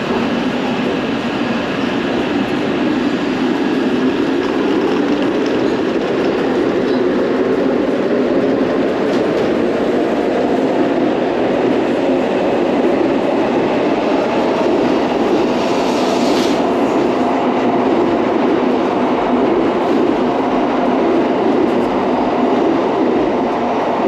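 Shinkansen bullet train pulling out along the platform and running past, a loud steady train noise whose pitch rises over the first several seconds as it gathers speed, then holds.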